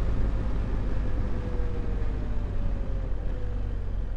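Motorcycle engine running under way and easing off, its faint whine slowly falling in pitch as the bike slows to pull up.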